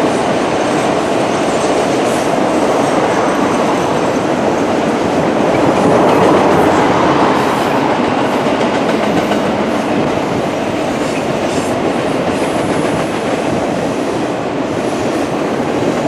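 Norfolk Southern Roadrailer freight train rolling past: its highway trailers on rail bogies make a steady, loud wheel-on-rail rumble that swells slightly about six seconds in.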